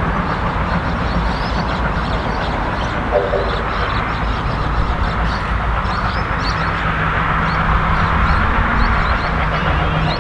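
Steady low rumble and engine hum of a train that is not yet in sight, held at an even level with a slight swell in the second half.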